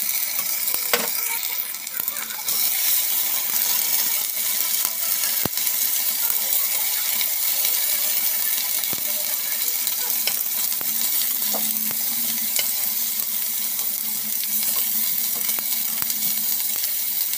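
Onions and spice paste sizzling steadily in hot oil in a large pot, stirred with a metal spatula that scrapes and clicks against the pot, with one sharp knock about five and a half seconds in.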